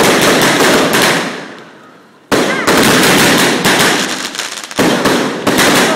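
Aerial fireworks going off close by: three loud bursts, one at the start, one about two seconds in and one near the end, each followed by a quick rattle of crackling reports that dies away.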